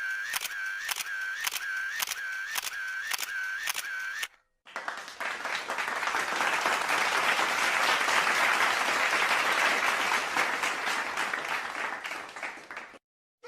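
A stock sound effect of about two clicks a second, each with a short tone, for about four seconds, stopping suddenly. After a brief gap, a crowd applauding swells and then fades, cutting off just before the end.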